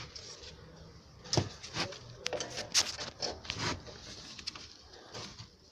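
A run of sharp knocks and clicks, hand work on rear drum brake parts, bunched between about one and four seconds in, with a couple more near the end.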